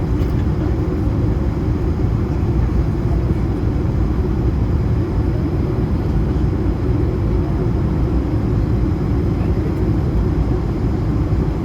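Steady cabin noise inside an Airbus A220-300 airliner: a constant low rumble of the engines and airflow, with no change in level.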